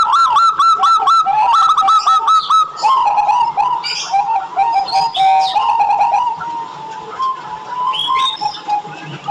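Zebra dove (perkutut) cooing. It opens with a quick run of short, clipped repeated notes for about the first two and a half seconds, then goes over to lower, slower rolling coos. Faint high chirps of other small birds are mixed in.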